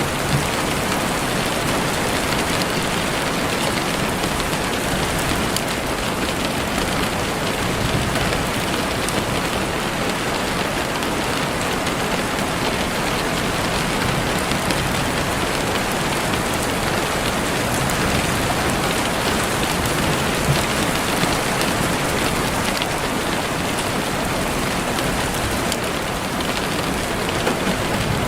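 Heavy rain falling steadily on leaves and the forest floor, a dense even hiss with scattered individual drop patters.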